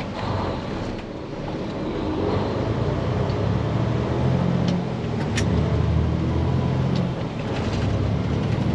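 Diesel engine of a day-cab semi truck pulling hard, heard from inside the cab. Its low drone builds over the first few seconds and eases briefly a couple of times. There is a single sharp click about five seconds in.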